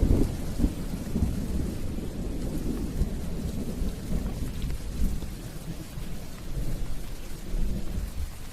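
Steady rain with low rolling thunder, a loud rumble right at the start and further rumbles swelling through.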